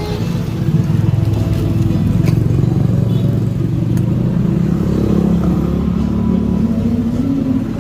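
A motor vehicle engine running steadily, louder about a second in, with faint music underneath.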